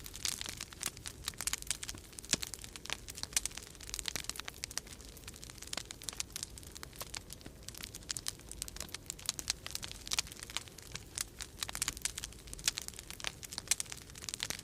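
Wood fire crackling in a fireplace: a dense, irregular run of sharp pops and snaps, over a low steady rumble of winter storm wind.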